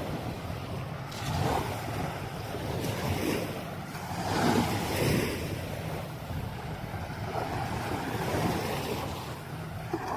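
Small waves washing onto a sandy beach, rising and falling in swells, with wind rumbling on the microphone.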